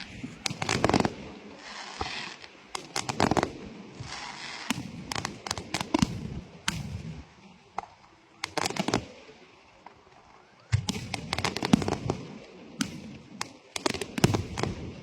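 Fireworks going off: irregular clusters of sharp bangs and cracks with crackling hiss between them, a short lull about two-thirds of the way through, then a fresh volley.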